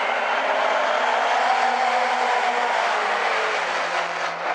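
A field of late model stock cars racing around a short oval track, several engines running hard at once in a steady, continuous drone.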